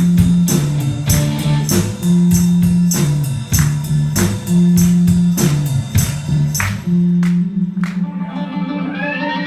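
Live rock band playing an instrumental passage, drums striking about twice a second over bass and guitar. About seven seconds in the drums stop and the band holds a final chord, and audience whoops start near the end.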